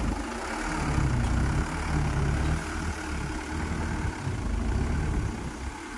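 Hino 500 dump truck's diesel engine running, a heavy low rumble that swells and dips unevenly.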